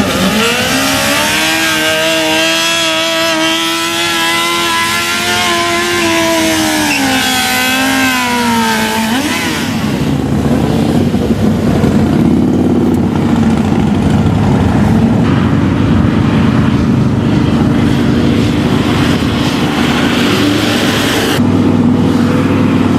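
Motorcycle engines: one engine holds a steady pitch, then drops in pitch about eight seconds in as it goes by. A dense, steady rumble of motorcycles running follows.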